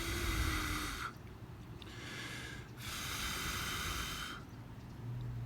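A person blowing hard and steadily onto a smouldering pine-needle tinder ember to build it toward flame: two long blows of about a second and a half each, with a softer breath between them, loud and close on the microphone.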